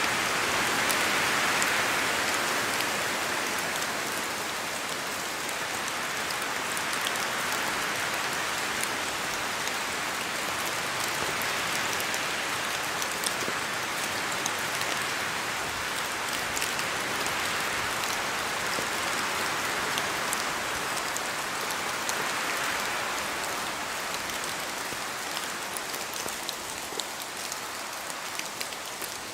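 Steady rain in a spruce forest, with many small drop ticks falling from the trees and wind through the branches swelling and easing every several seconds.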